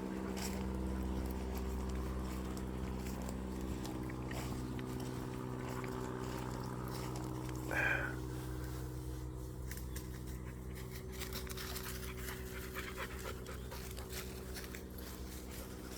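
A dog panting after running and fetching, over a steady low hum. A brief higher-pitched sound comes about halfway through.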